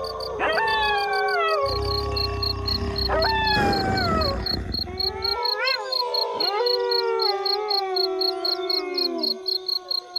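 A chorus of wolves howling: several long howls overlap, each rising sharply and then sliding slowly down in pitch, over one steadily held howl. A steady pulsing chirp of crickets runs underneath.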